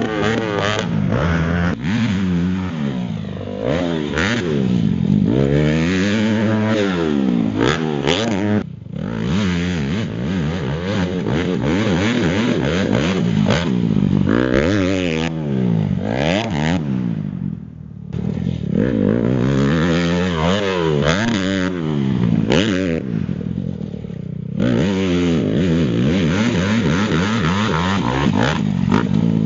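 Honda motocross bike engine revving hard and falling off again and again as the rider works the throttle through the gears. The throttle is cut briefly about nine seconds in and again near eighteen seconds.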